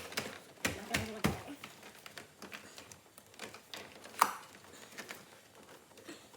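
Irregular light clicks and knocks of plastic interior trim and wiring being handled and pressed into place, busiest in the first second or so, with one sharp click about four seconds in.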